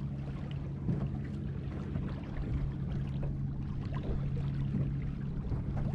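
A steady low drone with water lapping and trickling against a small fishing boat's hull.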